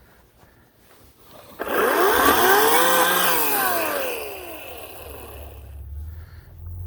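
Ryobi 18-inch electric chainsaw starting up about a second and a half in, its whine rising in pitch and then falling as the motor winds down. A low steady hum follows near the end.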